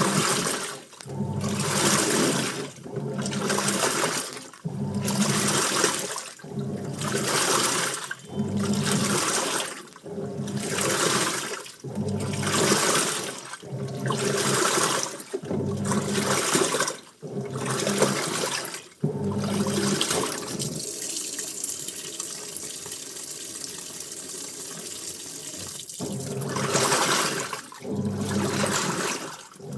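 Washing machine mid-wash: water sloshing through the clothes in regular surges about every two seconds, each surge carrying a low motor hum as the drum is driven. About two-thirds of the way through the surges give way to a quieter, steady wash of water for several seconds, then start again.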